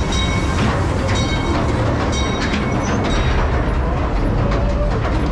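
Mine-ride train cars rumbling and rattling along the track, with short high-pitched metal squeals every second or so.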